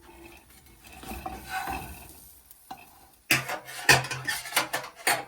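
Pan and utensils scraping, then a run of sharp metal clatters and knocks as the food in the pan is turned over.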